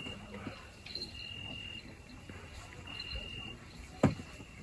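Cricket chirping: a high, even trill that comes in regular stretches under a second long, repeating about every second and a half. A single sharp knock sounds about four seconds in.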